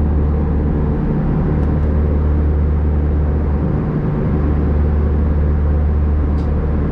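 Steady low drone inside the cabin of an Airbus A320 in flight, with engine and airflow noise that holds even throughout.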